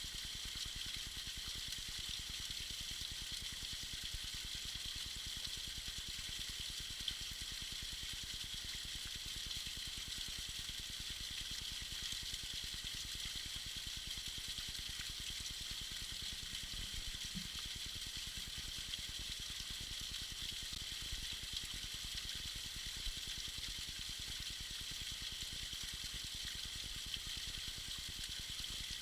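Small icy waterfall splashing steadily, an even high hiss of falling water with no pauses.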